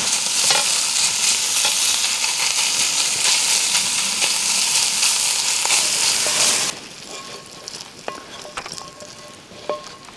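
Food sizzling and frying in a cast iron skillet over campfire coals as it is stirred, a loud steady sizzle. The sizzle cuts off abruptly about two-thirds of the way in, leaving a few light clinks.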